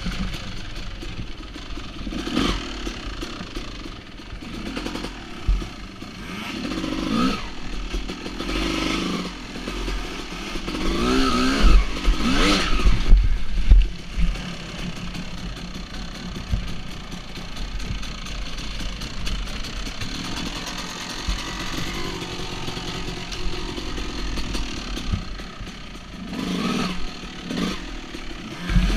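Two-stroke dirt bike engines running and revving up and down in repeated bursts as the bikes work through rocks and water. The revving is loudest about halfway through.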